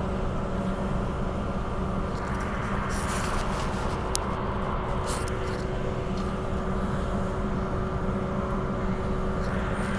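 Inside a Transperth Bombardier B-series electric multiple unit on the move: steady running rumble with a constant electrical hum, and a few brief sharp clicks between about three and five seconds in.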